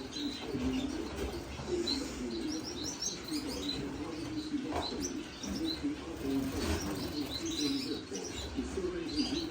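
A room full of caged finches and canaries chirping and twittering together, with short high calls scattered throughout.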